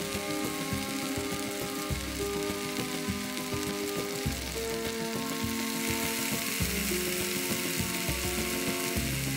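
Portobello mushroom caps sizzling and crackling in hot oil on a ribbed grill plate, a steady hiss, under background music with sustained notes and a bass line.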